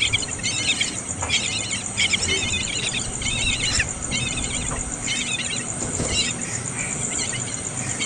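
Small birds chirping in quick twittering bursts, about one burst a second, over a steady high buzz.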